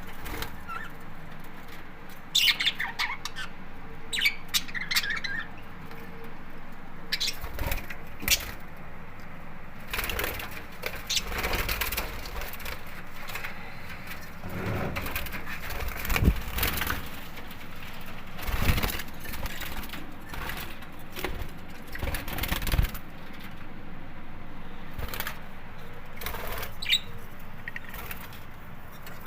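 Budgerigars flapping their wings in irregular bursts, with a few short chirps about two to five seconds in.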